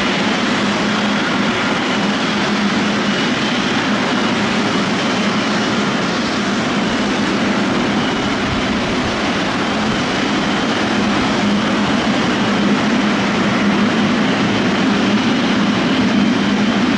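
Twin-engine Boeing 777 jet engines at takeoff power during a departure: a loud, steady rushing noise with a low hum underneath, swelling slightly near the end.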